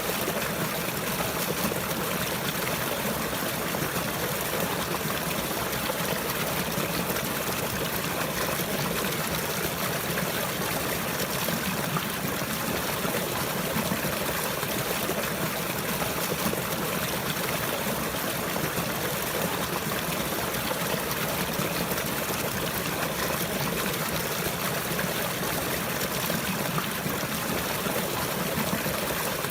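Steady flowing and trickling water, an even rushing hiss with no breaks or changes.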